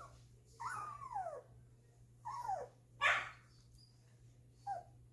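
Two-week-old golden retriever puppies whimpering: four short cries that fall in pitch, the third, about three seconds in, louder and harsher, like a small yelp.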